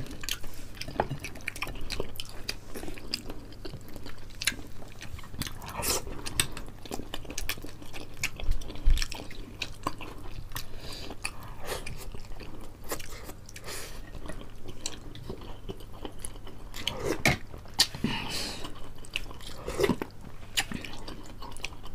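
Two people chewing and biting into whole fried chicken and boiled pork hock, close-miked: wet smacking mouth sounds with many small irregular clicks and crunches. A low steady hum runs underneath.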